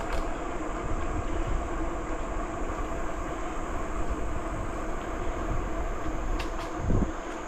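Bicycle rolling steadily along a trail: a continuous rumble of tyres with wind on the microphone and a steady high hiss, with a couple of light clicks near the end.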